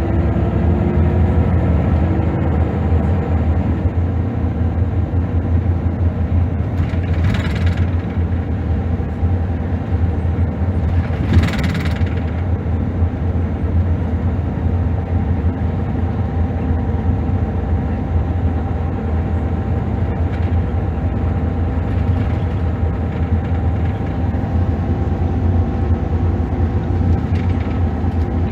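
Scania DC9 five-cylinder diesel of a Scania L94UB bus running steadily with a deep, even drone, with two brief bursts of noise about 7 and 11 seconds in.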